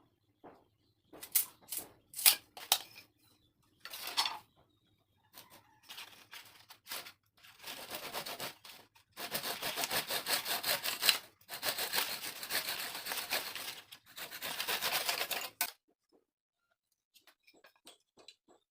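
Hand work on a small wooden toy: a series of clicks and knocks, then three long stretches of steady rasping, as of wood being worked by hand. The rasping stops sharply near the three-quarter mark.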